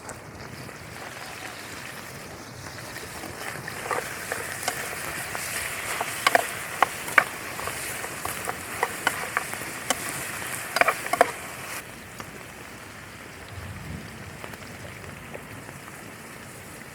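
Steady rain falling, with a cluster of sharp clicks and taps from about four to eleven seconds in, after which the rain noise eases a little.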